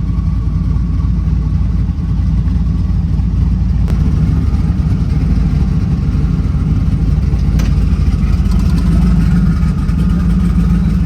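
Twin-turbocharged small-block Chevy V8 in a Caprice idling steadily and loud.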